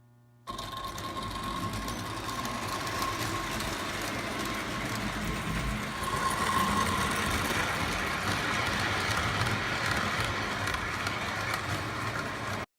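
Lionel electric toy train running on three-rail track: a steady rattle and rumble of the wheels with a faint motor whine. It starts suddenly about half a second in, grows a little louder about halfway through, and cuts off just before the end.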